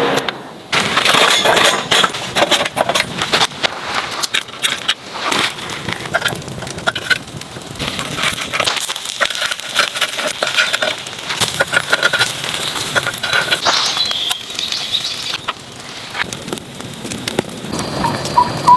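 Charcoal fire crackling in a camp fire pit, with dense irregular snaps and pops and a few light clinks.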